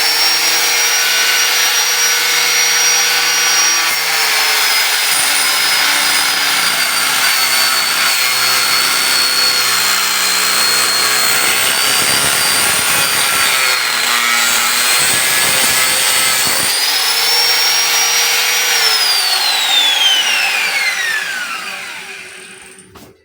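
Angle grinder cutting into the metal of a water heater. The motor's whine dips in pitch under load and recovers several times. Near the end it is switched off and winds down in a long falling whine.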